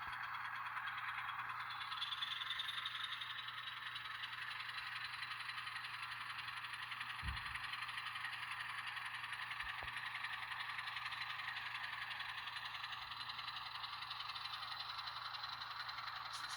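N scale diesel switcher with an ESU LokSound decoder running, its tiny onboard speaker playing a steady, thin diesel engine sound. A single low thump comes about halfway through.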